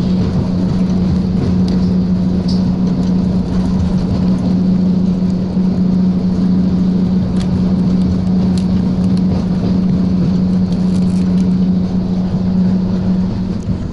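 Steady running noise of the Strizh train heard inside the carriage while it travels at speed: an even rumble with a strong low hum that cuts off shortly before the end.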